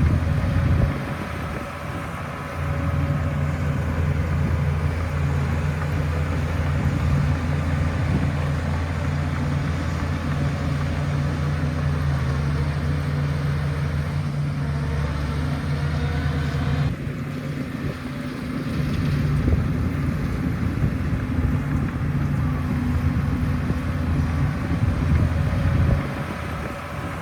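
Heavy diesel engine of a Shantui bulldozer running steadily under load, its note dipping briefly a few times.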